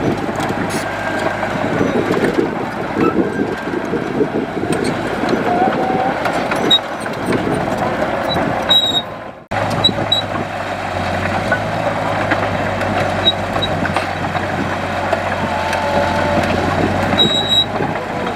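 Heavy diesel earthmoving machinery running steadily under load, with a low engine drone and clattering noise. It breaks off abruptly about halfway through and comes straight back.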